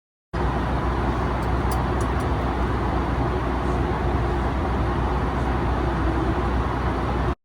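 Steady jet airliner cabin noise inside a Boeing 737 MAX 8: a constant rush of engine and airflow noise with a deep low rumble, with a few faint ticks about one and a half to two seconds in.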